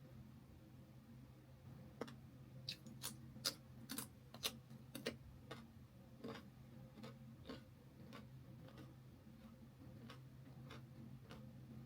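Close-up eating sounds of a person chewing chicken leg pieces: a run of faint, irregular sharp clicks, thickest about two to six seconds in, then sparser. A low steady hum runs underneath.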